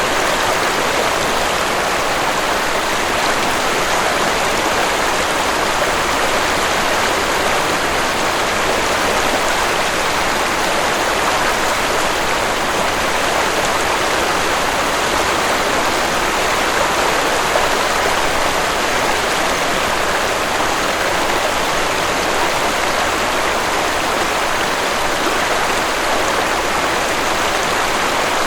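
Waterfall and stream water rushing, a steady, unbroken hiss.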